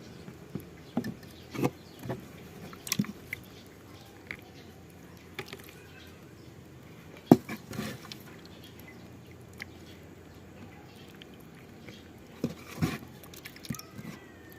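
Close-miked eating sounds: irregular wet mouth clicks and chewing, with one sharp click about seven seconds in, over a faint steady hum.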